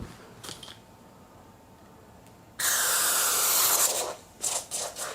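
Aerosol cleaner-lubricant sprayed into a road bike's shifter: one long hiss of about a second and a half, starting halfway in, then a few short squirts. The shifter is being flooded because its ratchet click isn't resetting, so shifting fades out.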